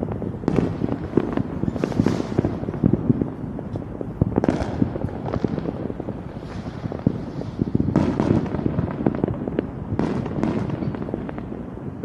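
Fireworks going off: dense popping and crackling, with several louder bursts spread through.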